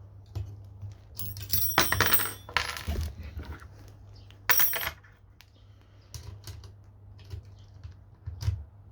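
Small metal parts clinking and rattling as the jigsaw's blade clamp is worked with an Allen key to fit the blade. The loudest bursts, with a bright metallic ring, come about a second or two in and again halfway through, with scattered lighter clicks after.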